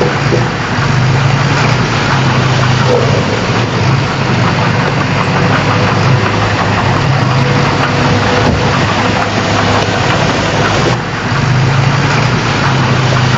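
Bulldozer's diesel engine running steadily at working load, a deep drone under a dense hiss, with a brief dip in level near the end.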